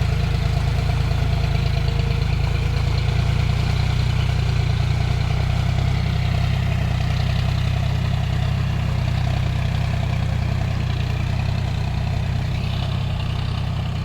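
John Deere tractor's diesel engine running steadily at a constant low pitch, easing off slightly in level near the end.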